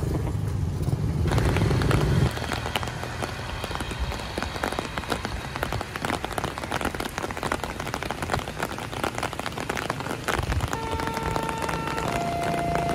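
Rain falling in a dense patter, with a vehicle engine rumbling for the first two seconds. Near the end a railway level-crossing warning alarm starts, alternating between two steady tones, as the crossing prepares to close for a train.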